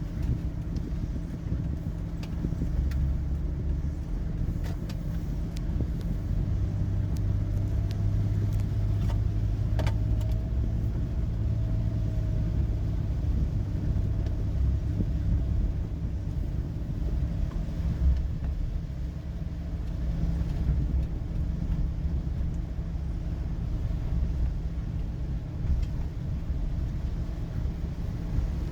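Car interior noise while driving: a steady low rumble of tyres and engine heard from inside the cabin, with an occasional faint click.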